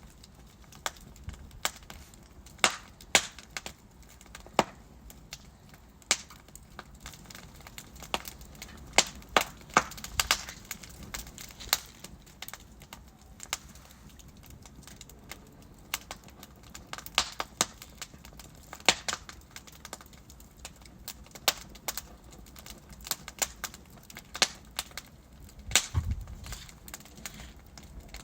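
Wood fire in a fireplace crackling: burning logs giving off irregular sharp pops and snaps, a few of them louder, over a low steady hiss.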